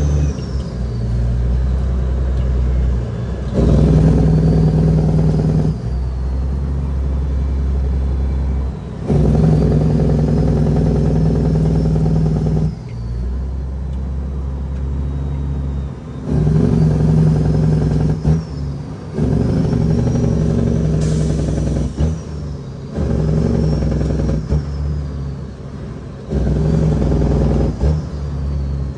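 Loaded Cat 6NZ inline-six diesel in a Kenworth W900L hauling about 50 tons, working hard. It pulls in loud stretches of a few seconds, each broken by a short drop, as with a run of gear changes. A faint whine rises and falls above the engine with each pull.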